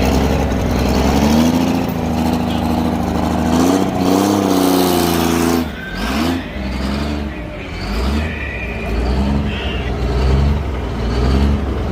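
Pulling truck's engine running hard under load, its pitch wavering up and down. About six seconds in it drops off, then revs up and falls back again and again in short swells.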